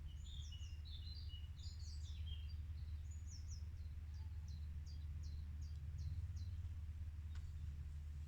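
Songbirds chirping in quick high notes, with a run of about ten short, evenly repeated down-slurred notes in the middle, over a steady low rumble.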